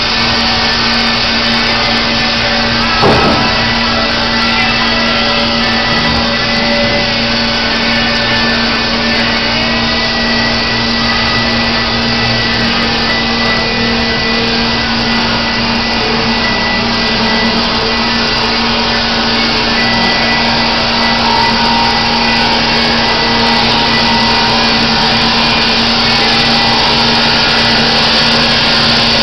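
Baker Products Super Streak band sawmill running steadily under a constant hum, with a single knock about three seconds in.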